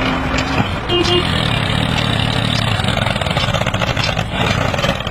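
Toy mini tractor running steadily, a continuous engine-like drone.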